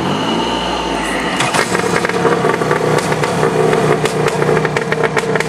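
Homemade amphibious Subaru car's engine running steadily, with a rapid, irregular rattling and clicking joining in about a second and a half in.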